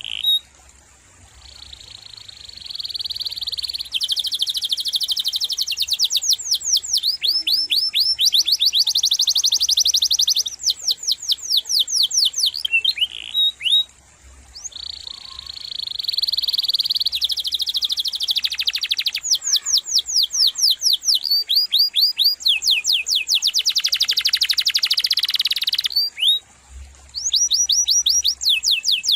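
Domestic canary singing: long rolling runs of rapid repeated trill notes, switching from one phrase to the next every second or two, some a fast even trill and some rapid repeated sweeping notes. The song breaks off briefly three times.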